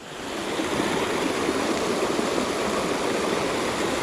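Small mountain creek rushing and splashing steadily over rocks, fading in over the first half second.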